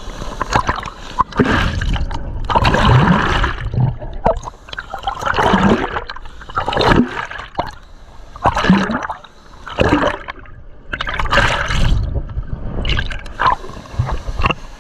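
Water splashing and gurgling around a swimmer caught in a waterfall pool's strong current, in loud, uneven surges about once a second.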